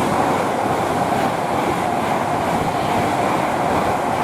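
Class 390 Pendolino electric train passing at speed: a loud, steady rush of wheels and air with a steady whine running through it.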